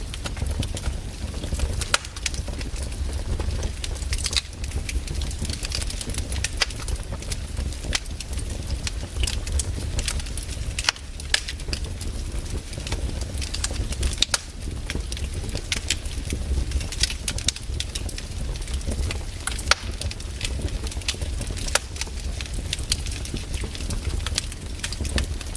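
Wood campfire burning, crackling with frequent sharp, irregular pops and snaps over a steady low rumble.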